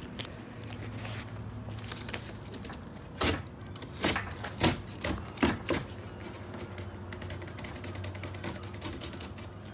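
Cardboard packing box being cut and torn open with a knife: a stream of small crackles and rustles, with four louder rips in the middle.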